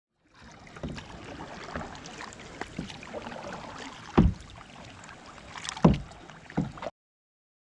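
Kayak out on the water: a steady wash of water and splashing, with several dull thumps, the two loudest about four and six seconds in. The sound cuts off suddenly near the end.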